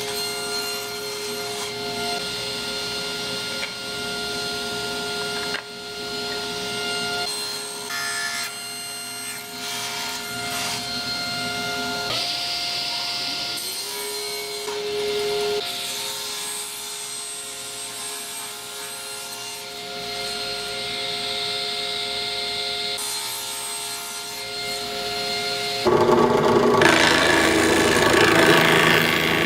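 Electric power saw running with a steady high whine, its pitch sagging under load and recovering about halfway through as it cuts into wood, then a louder, rough cutting noise near the end.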